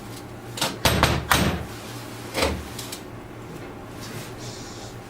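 A few short knocks and clacks of tools and metal parts being handled while a tractor starter motor is taken apart, about four in the first two and a half seconds, loudest about a second in.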